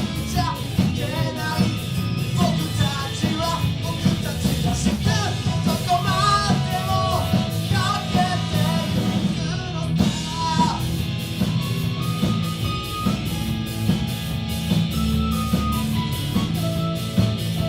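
Live rock band playing with electric guitars, bass, drums and keyboard. A wavering melody line rides over the band for the first two-thirds, then gives way to steadier held notes.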